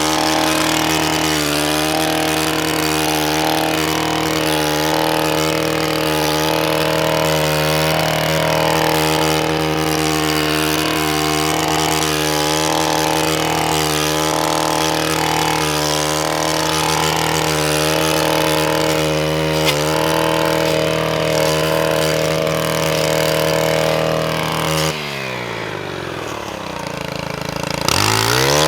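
Gas-powered string trimmer engine running at full throttle while cutting overgrown bank vegetation, its pitch wavering with the load. Near the end the throttle is released, the engine drops to idle, then it is revved back up.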